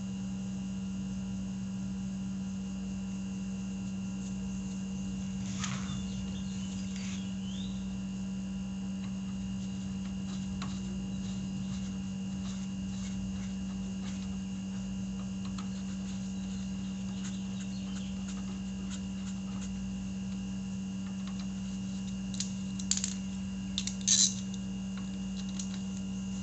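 Steady electrical hum, with a few light metal clicks and scrapes from hand tools tightening small hex bolts on a motorcycle brake caliper; the clicks come a few at a time, loudest twice near the end.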